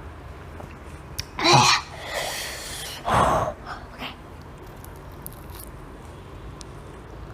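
A woman's short pained cry, a long breathy exhale and a sharp gasp, her reaction to the burn of ghost pepper powder on spicy chicken.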